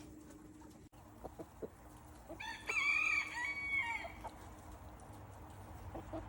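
A rooster crows once, a single call of nearly two seconds that starts about two and a half seconds in. A few short, soft sounds of the flock come before and after it.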